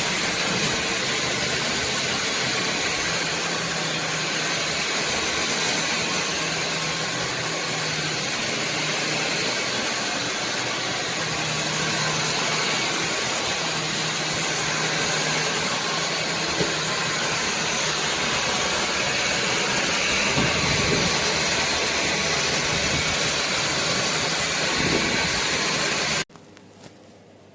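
Sulean X8 cordless stick vacuum running: a steady whooshing rush of air with a thin high whine. It stops abruptly near the end.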